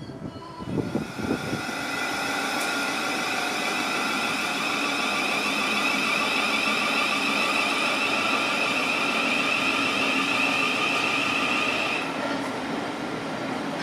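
Thameslink Class 700 electric multiple unit at the platform, its traction equipment giving a steady high-pitched whine over the running noise; the strongest whine tone cuts off about twelve seconds in.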